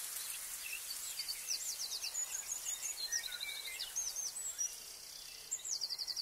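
Small birds chirping and trilling high over a steady outdoor hiss, with a quick run of repeated notes near the end.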